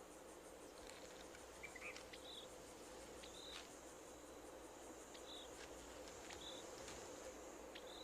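Faint insect ambience: a steady high-pitched trill with short, high chirps repeating about once a second.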